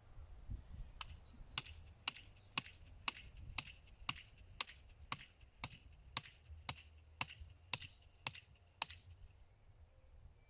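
Hammer blows at a steady rhythm of about two a second, sixteen strikes with a short ring after each, typical of driving a nail into wood; they stop about a second before the end.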